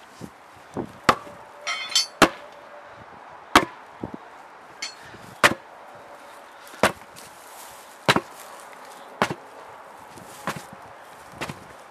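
A series of hard, sharp hammer-like blows, roughly one every second to second and a half, with a short metallic ringing after one of them about two seconds in.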